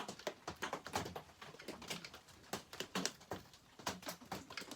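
Quick, irregular clicking as a bolt on a McCulloch 850 chainsaw is wrenched down, while the bolt, which had been spinning as if its threads were stripped, starts to draw tight.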